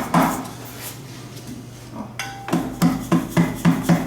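A plastic-faced dead-blow (anti-rebound) hammer tapping the aluminium cover of a 2011 Honda CR-V automatic transmission case to knock it loose. One tap at the start, a pause, then a quick run of taps at about four a second in the second half.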